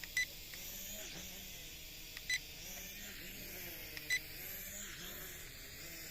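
Three short electronic beeps about two seconds apart, each one high tone, from a JC801 toy drone's remote controller, over a steady hiss.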